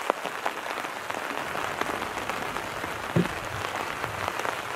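Wood fire burning in a fire pit, crackling steadily with many small pops, and a single knock about three seconds in.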